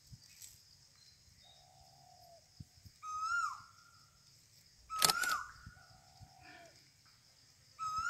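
A bird calling outdoors: short pitched calls that dip and then rise, about three and five seconds in, and two lower, longer calls in between. A sharp click comes with the second call.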